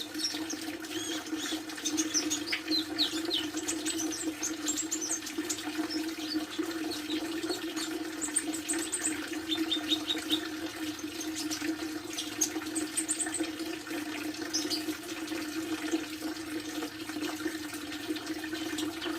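A pet sunbird chirping in short, high-pitched calls and quick trills, on and off, over a steady low hum.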